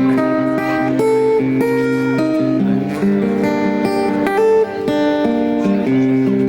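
Acoustic guitar playing an instrumental passage of picked chords and single notes, with no singing.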